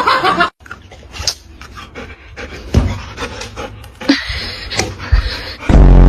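Dog panting, broken by a few short knocks and a loud low thud near the end.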